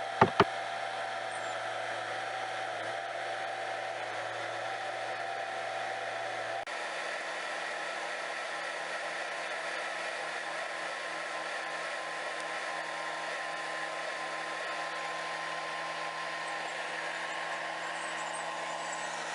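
An engine running steadily, a continuous hum with several steady tones. Two sharp clicks sound right at the start, and about six and a half seconds in the low hum changes pitch abruptly.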